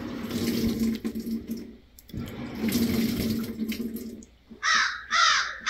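Boat motor being cranked in two tries of about two seconds each, a steady churning hum that stops each time without the engine catching, a machine that sometimes doesn't want to start. After that, a crow caws several times.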